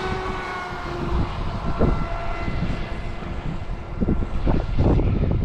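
Heavy wind buffeting the microphone, over a faint whine from a Pro Boat Recoil 2 26-inch RC speedboat's motor whose pitch drifts slightly as the boat runs; the whine is clearest in the first second.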